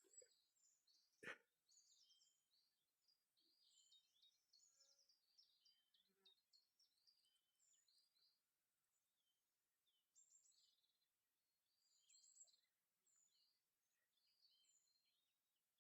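Faint birdsong: several small birds chirping and twittering on and off throughout, with one short soft knock about a second in.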